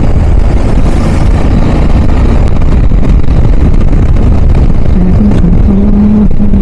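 Wind buffeting a motorcycle action camera's microphone at highway speed, a loud, steady low rumble, with the motorcycle engine running underneath. A steady engine note comes up about five seconds in.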